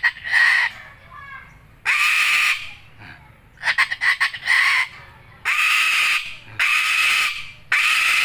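White cockatoo calling: four loud, raspy screeches, each under a second, in the second half, with quick stuttering chatter near the start and about four seconds in.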